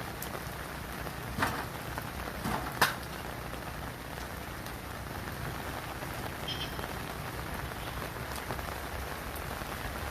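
Steady rain falling on surfaces, with a few sharp knocks or drips standing out, the loudest about three seconds in.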